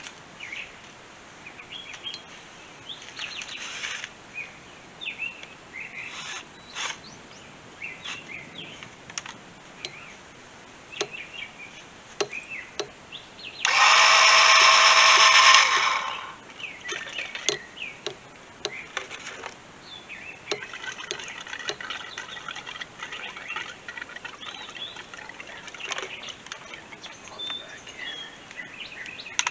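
Birds chirping throughout. About halfway through comes a much louder steady whine of about two seconds, with several pitches at once, which then stops.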